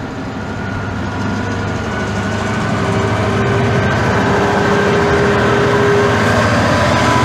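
Class 66 diesel freight locomotive's two-stroke V12 engine working hard as it pulls away, a steady hum with held tones that grows louder.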